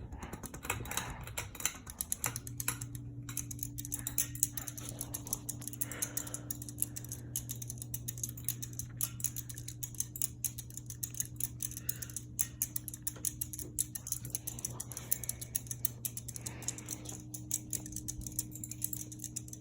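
Seagull Lighting ceiling fan running on high speed: a steady motor hum with rapid light ticking over it. The hum wavers for the first couple of seconds, then settles as the fan takes up the new speed.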